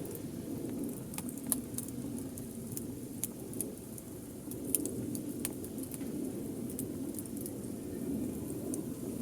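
Wood fire burning, with irregular sharp crackles and pops, a dozen or so, over a steady low rumble of flames.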